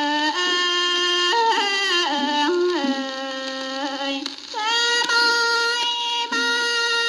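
A woman singing a solo Thai classical vocal line, heard from an old shellac 78 rpm record: long held notes with sliding, bending ornaments, and a short break about four and a half seconds in before the next phrase.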